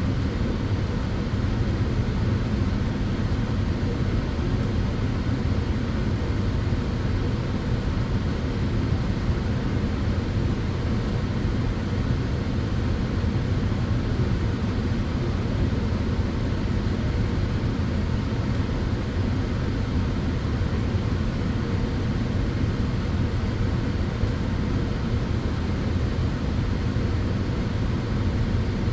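Tanning bed (sunbed) running: a steady, even drone of its cooling fans and hum, heavy in the low end and unchanging throughout.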